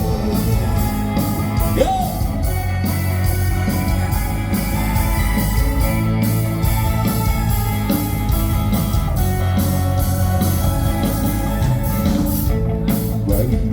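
Band playing a rock-pop song: drums keep a steady beat under electric guitar and other instruments in a mostly instrumental passage between sung lines.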